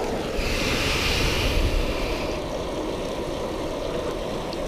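Steady rush of water pouring over a spillway, with a brief hissing swell that rises about half a second in and fades after about two seconds.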